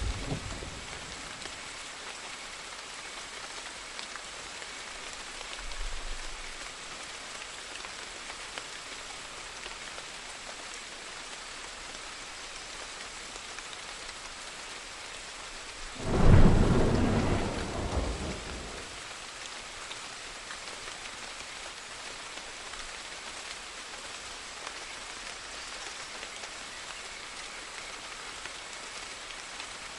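Steady rain with thunder. A faint low rumble comes about six seconds in, then a loud clap about halfway through that rolls on for two or three seconds before the rain is heard alone again.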